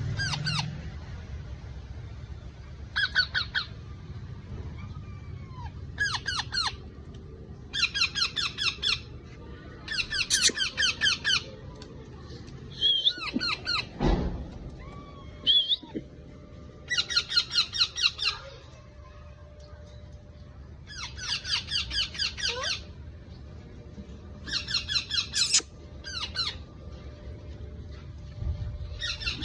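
Hand-tame parrot chicks calling in short bursts of rapid, repeated chirps, about a dozen bursts a couple of seconds apart, with a couple of single sharper squawks near the middle.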